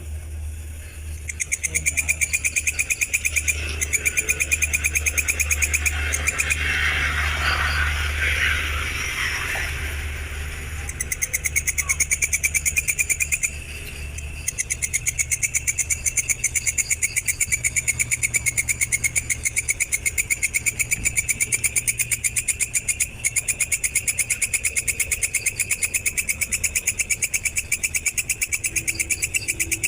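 Insect trilling in a fast, even, high-pitched pulse train that starts about a second in and breaks off briefly twice. A louder hissing burst comes around the middle.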